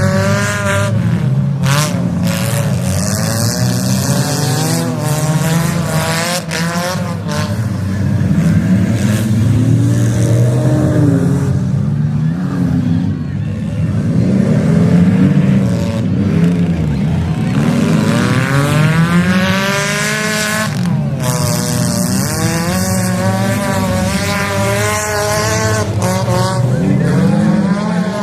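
Several demolition derby cars' engines revving hard at once, their pitch rising and falling as the drivers accelerate and back off, with occasional loud crashes of cars hitting each other.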